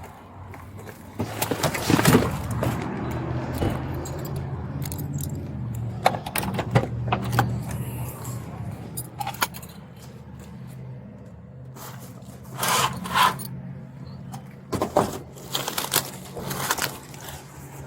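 Metal jangling and scraping in several bursts over a steady low hum.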